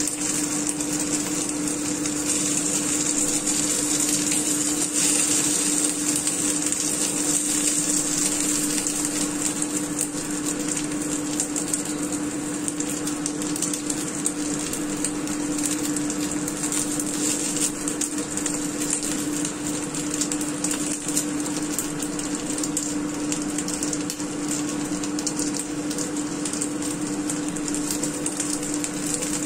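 Chicken-and-scallion dumplings sizzling and crackling in oil in a frying pan, steady throughout, over a constant low hum.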